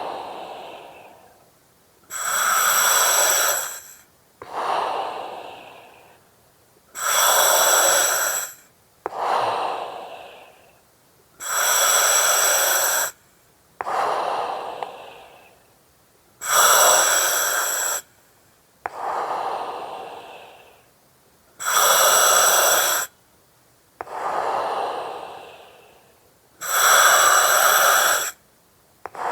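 Slow, even breathing through an oxygen mask, with a regulator hiss. There are about six breath cycles. Each is a loud hissing breath of about two seconds, then a softer breath that fades out.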